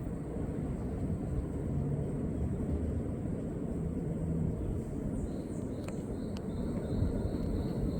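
A steady low rumble with no clear source, and a faint series of high chirps in the second half.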